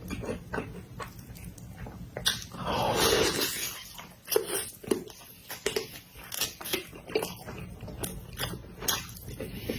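Close-miked eating sounds: wet chewing and mouth smacks, clicking irregularly throughout, with one longer, noisier sound lasting about a second around three seconds in.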